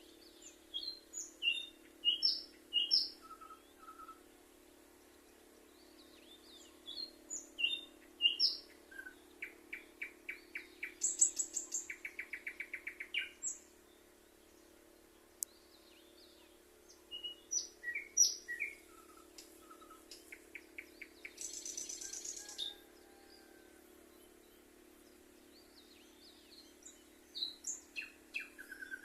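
Songbird singing in repeated bursts of short whistled notes and rapid trills, with pauses of a few seconds between bursts.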